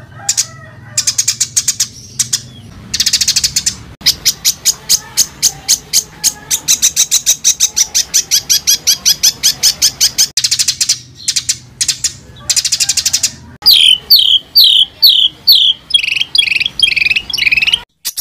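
Songbird song: rapid volleys of short, sharp high notes, about five a second, broken by brief pauses. From about three-quarters in comes a run of loud downward-slurred whistles, about two to three a second, then rougher notes before the song cuts off.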